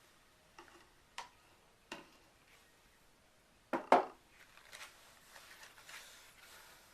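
Light clicks and knocks of containers and utensils being handled on a work surface, with a louder double knock a little past halfway, then soft rustling and small clicks.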